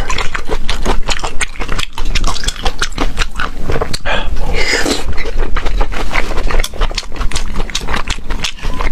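Close-miked eating sounds: rapid wet chewing and lip smacking, with a longer slurp about four to five seconds in.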